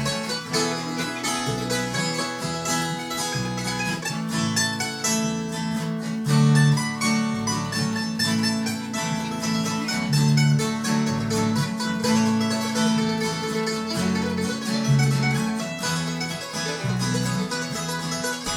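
Acoustic string band playing an instrumental tune, with quick plucked picking over changing low bass notes.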